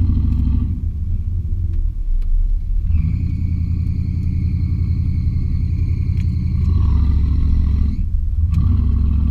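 The 350 V8 engine and exhaust of a 1986 Chevy K20 pickup run steadily under load while driving. The engine eases off for a couple of seconds about a second in. It dips out briefly about eight seconds in, then pulls again.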